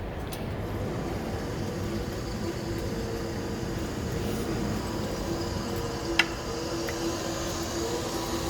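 Matsumoto Kikai MT-3A-2.4 welding positioner running under power: a steady electric motor and gear drive hum, its tone firming up about halfway through. A single sharp click about six seconds in.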